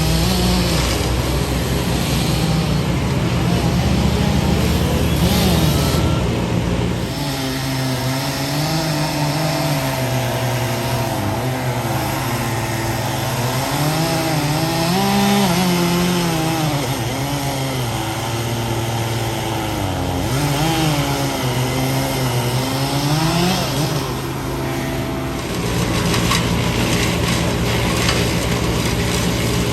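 A chainsaw cutting wood, its pitch rising and falling as it works, from about seven seconds in until about twenty-five seconds in, over a large engine running steadily.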